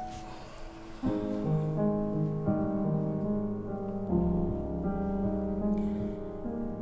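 Soft piano music score: slow held notes and chords, growing fuller about a second in, with a deep bass note added about four seconds in.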